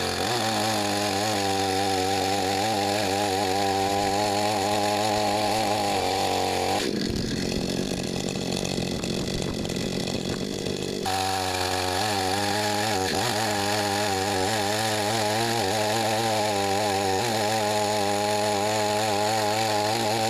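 Gas two-stroke chainsaw running under load as it cuts through a pecan log, its engine note wavering as the chain bites. For about four seconds partway through, the steady note breaks into a rougher sound; then the cutting note returns.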